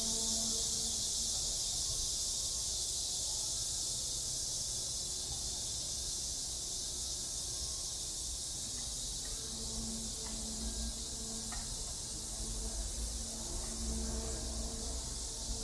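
A steady, high-pitched chorus of summer insects, continuous throughout, over a low rumble.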